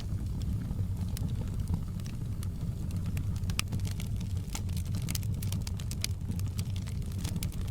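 Wood fire in a fireplace crackling, with many sharp, irregular pops and snaps over a steady low rumble.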